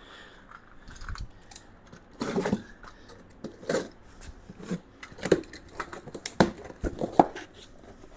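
Handling and unwrapping packaging of tool-cart parts: plastic crinkling and tearing, with scattered short clicks and knocks that grow busier about two seconds in.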